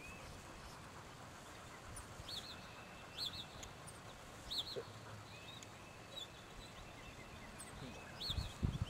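Songbirds chirping in the background: short, high, repeated chirps a second or more apart, with a faint thin whistled note between them. A few low thumps come near the end.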